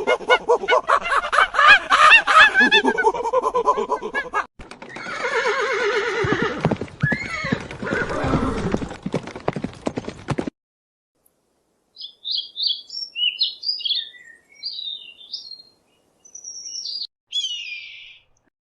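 Animal calls: a loud wavering call lasting about four seconds, then a second call with falling sweeps in pitch. After a short pause comes a string of short high chirps.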